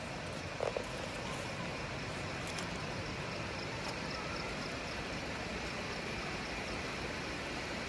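Steady rush of flowing water from a waterfall, with one short blip less than a second in.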